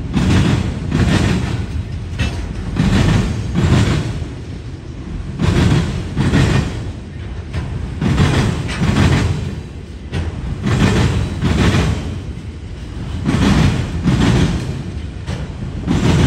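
Freight train of autorack cars rolling past, the wheel trucks clattering over the rail joints in a steady rhythm: pairs of clacks a little under a second apart, repeating every two to three seconds as each car passes.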